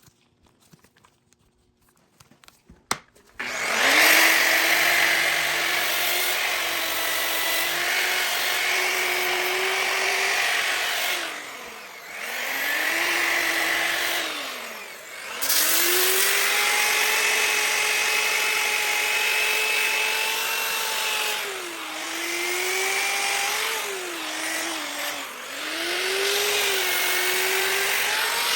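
Bauer variable-speed grinder with a sanding pad sanding a cast iron skillet toward bare metal: a steady motor whine over a loud grinding hiss that starts about three and a half seconds in. The whine sags in pitch and level twice midway, and wavers again near the end.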